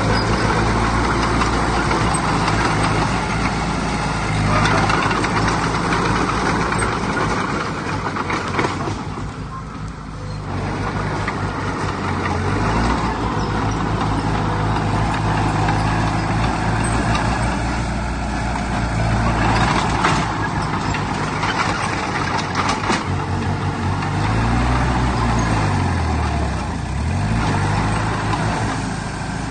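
Heavy diesel engine of earthmoving machinery running steadily under work, its pitch dipping and climbing back up near the end.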